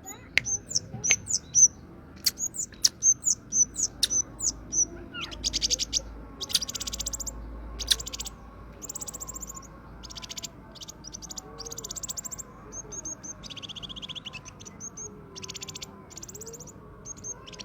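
Kemade songbird singing: a run of short, sharp, high whistled notes, then repeated rapid buzzy trills, each up to about a second long.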